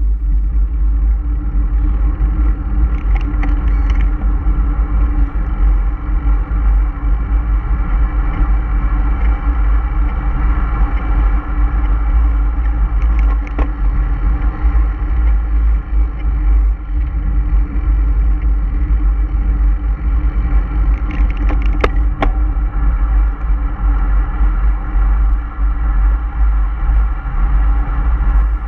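A motor vehicle travelling at a steady speed: a constant engine drone over heavy low rumble from the road and wind, with a few faint clicks about three quarters of the way through.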